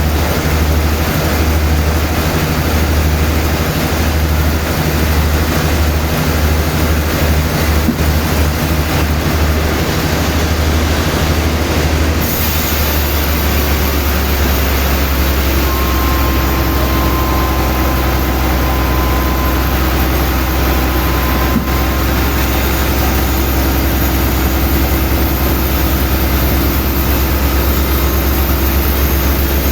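Sawmill machinery running loudly and steadily, with a heavy low pulsing rumble. The pulsing quickens about twelve seconds in, and a faint steady whine joins it a few seconds later.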